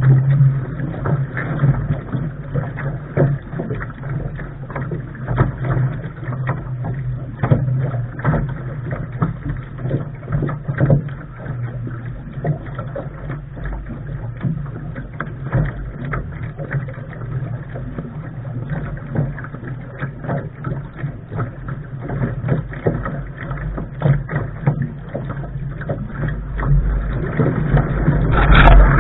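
Water splashing and slapping against the bow of a Lark sailing dinghy under way, with irregular short knocks. A low rumble swells near the end.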